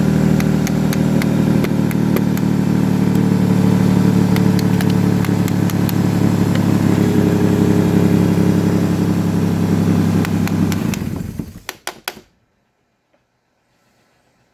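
Nissan Xterra's 4.0-litre V6 running steadily with a light ticking over it. It cuts out about eleven seconds in, a few clicks follow, then it is quiet.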